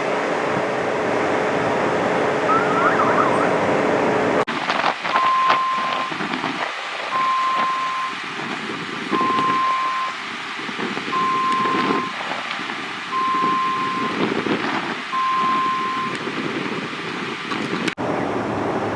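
Vehicle back-up alarm beeping: six steady one-second beeps, one every two seconds, over rumbling engine and street noise. Before it, a steady hum runs under the street noise for the first few seconds.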